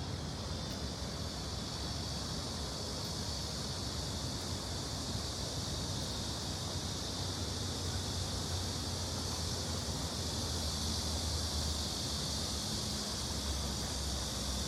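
Steady rushing hiss of Cheonggyecheon's flowing stream water, over a low rumble of city traffic.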